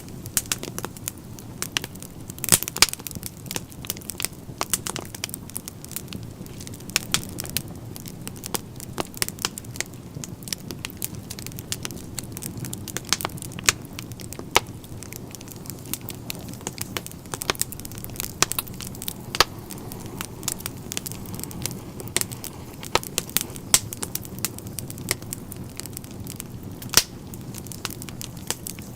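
Wood fire burning in a fireplace: a soft steady rush of flames with frequent irregular crackles and sharp pops.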